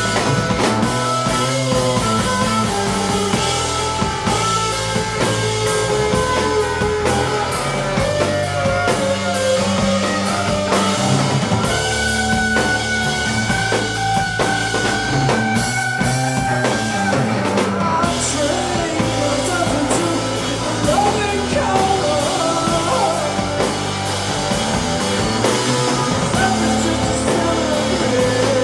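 Live rock band playing a song on drum kit and guitars, loud and continuous.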